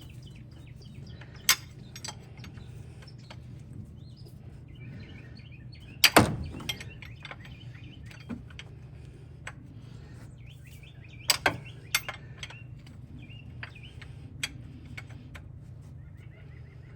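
Sharp clicks and knocks of hand tools on metal while an engine bracket is worked loose. They are scattered, with the loudest knock about six seconds in and a cluster around eleven to twelve seconds, over a steady low hum. Birds chirp faintly.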